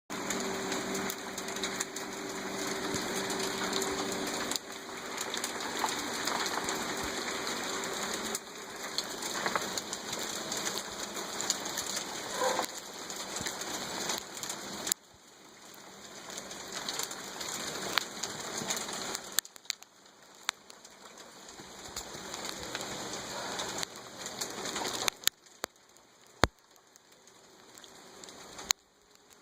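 Hail falling: a dense patter with many sharp ticks of single hailstones striking. It comes in several stretches that stop and start abruptly, fainter from about halfway through.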